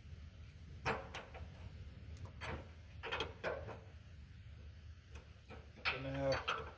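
Scattered metal clinks, knocks and scrapes as a semi truck's cab shock and its mounting bolt are worked by hand to line up with the mount holes, with a short grunt from the worker near the end.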